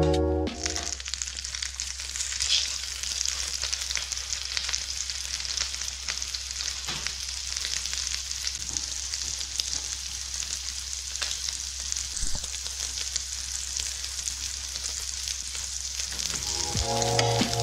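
Tuna steak searing in hot fat in a frying pan: a steady sizzle full of small crackles and pops. It starts suddenly about a second in, as the fish goes into the pan.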